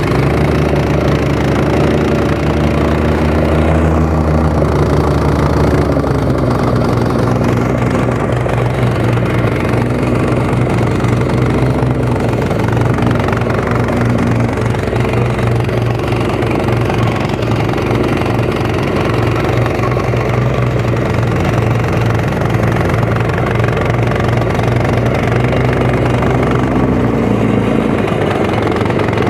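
Small engine of a compaction machine running steadily, with its note shifting about six seconds in.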